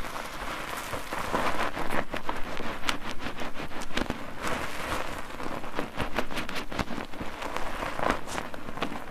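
Bar soap being worked into lather with a foaming mesh net: a continuous wet, crackling squish of foam and popping bubbles with many small clicks.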